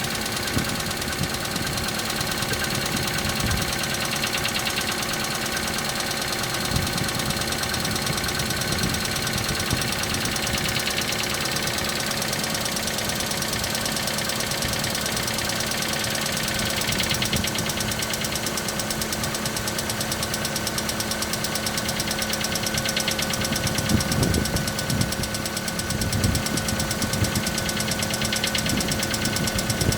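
Hyundai Accent MC engine idling cold with a steady, fast rattling knock, which the owner puts down to a worn camshaft timing chain that goes quiet once the engine warms.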